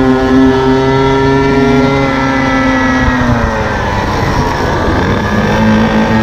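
Small two-stroke engine of a gas-powered stand-up scooter running at steady high revs, then dropping in pitch as the throttle eases off a little past halfway, and picking up again near the end.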